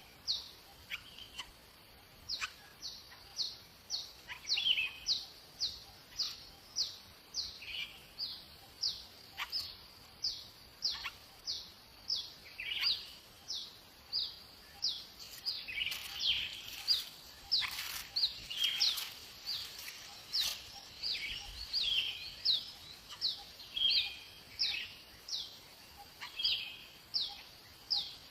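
A bird chirping over and over: short, high notes that drop quickly in pitch, about two a second, with softer chirps mixed in.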